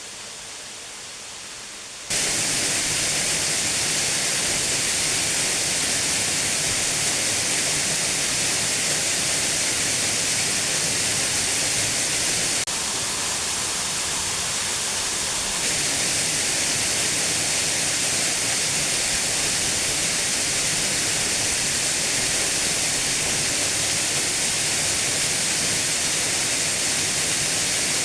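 Steady rushing of a waterfall, an even hiss. It gets sharply louder about two seconds in and drops slightly for a few seconds around the middle.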